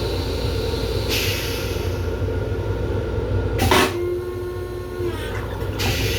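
Long Island Rail Road M7 railcar running, a steady low rumble heard from inside the car. A hiss comes through, and a sharp click about two-thirds of the way in is followed by a brief steady tone.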